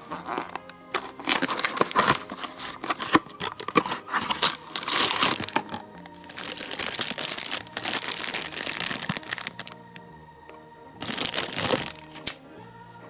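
Plastic packaging of a candy toy crinkling and tearing as it is opened by hand, with sharp crackles and two longer rustling stretches in the second half, over quiet background music.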